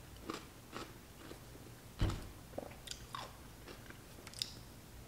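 A person chewing a dill pickle spear with irregular small crunches. There is one louder thump about two seconds in.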